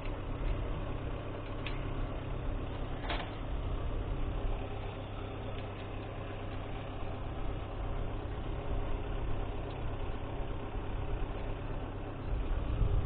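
MTZ-892 tractor's diesel engine idling steadily, with a couple of faint light clicks a few seconds in.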